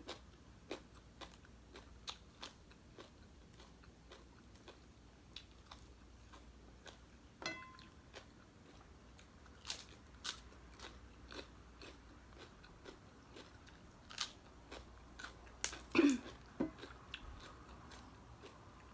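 A person biting and chewing crunchy papaya salad close to the microphone, with short crisp crunches every second or so and a louder cluster of bites about three-quarters of the way through.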